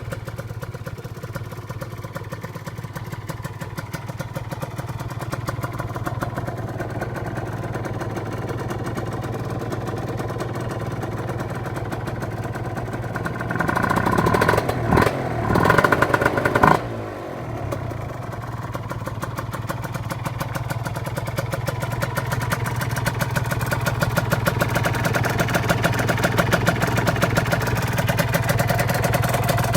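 Kawasaki 150 RR two-stroke single-cylinder engine breathing through a PDK Tsukigi expansion-chamber exhaust, idling steadily. About halfway through it is revved in a few quick throttle blips, then drops sharply back to idle.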